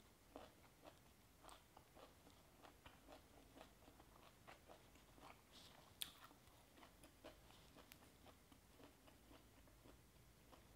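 Faint, close-miked chewing of crunchy shredded banana flower and raw beef salad: many soft, irregular crunches and wet mouth clicks, with one sharper click about six seconds in.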